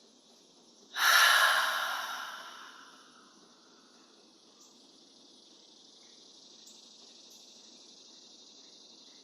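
A woman's deep, audible exhale, a sigh-like breath about a second in that fades over about two seconds: an intentionally deepened breath. A faint steady high hiss sits underneath.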